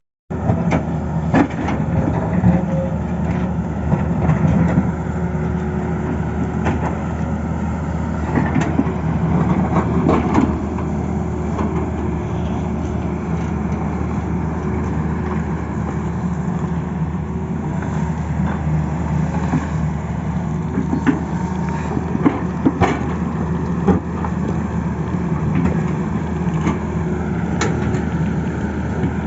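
Tata Hitachi excavator's diesel engine running steadily at work, with scattered short knocks and clanks from the machine.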